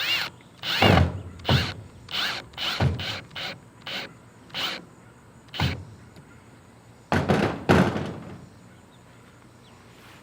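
Irregular knocks and clunks on wood, about a dozen over some eight seconds and ending near the end, as a solar light is fixed in place.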